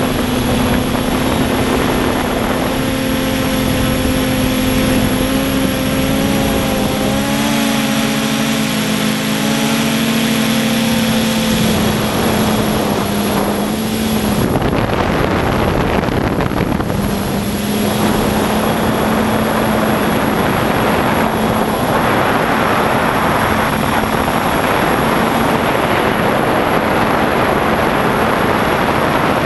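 Radio-controlled quadcopter's electric motors and propellers buzzing in flight, the pitch wavering and shifting as the motors change speed. The buzz drops out for a few seconds about halfway through.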